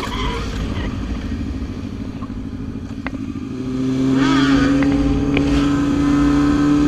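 Motorcycle engine running. A low, uneven rumble steadies into a louder, even drone at higher revs about three and a half seconds in.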